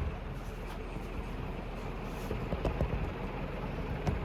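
A 2001 HRS industrial ceiling fan with three curved metal blades running at high speed: a steady rush of moving air with a low rumble, and a couple of light knocks about two-thirds of the way through and near the end.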